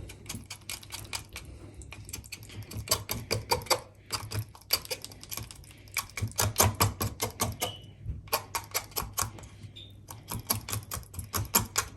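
A knife tapping and scraping against a chopping board and chicken bone while meat is scraped down a chicken wing bone, in quick runs of sharp clicks with short pauses between.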